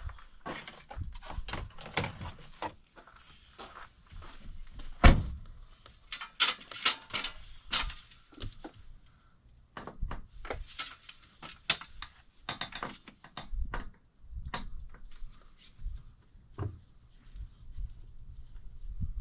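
Irregular knocks, clicks and rattles of hand work on a truck camper's roof vent cover being taken off, with one louder thump about five seconds in.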